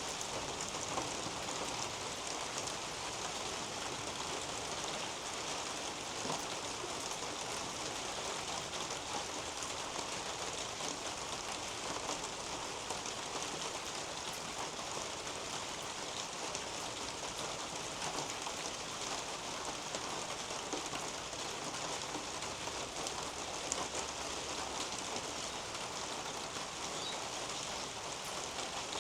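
Steady rain falling on garden leaves and soil, a continuous hiss dotted with many small drop ticks.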